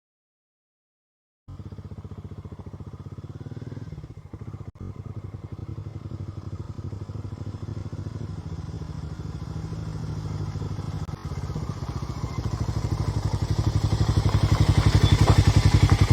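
Harley-Davidson X440's single-cylinder engine running through its exhaust, a steady pulsing note that grows gradually louder. It starts after about a second and a half of silence.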